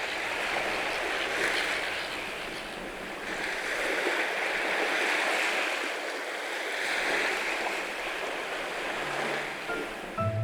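Sea waves washing on a shore, a steady hiss of surf that swells and fades every couple of seconds.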